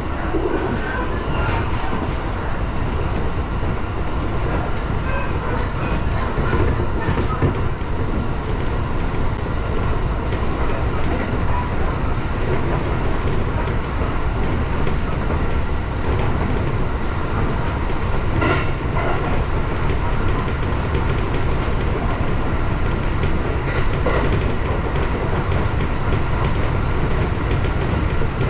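701 series electric train running at speed, heard from inside the driver's cab: a steady rumble of wheels on rail, with a few faint clacks over rail joints.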